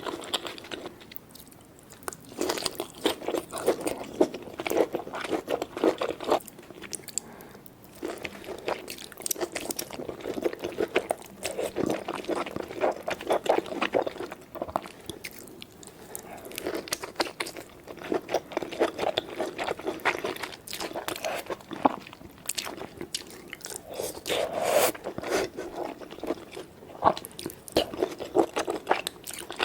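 Close-miked eating of seafood boil: irregular crunching, biting and wet chewing in waves, one bite after another.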